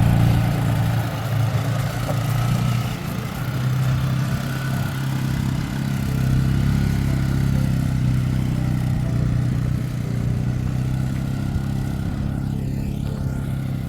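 An engine running steadily, its pitch shifting a little about three seconds in.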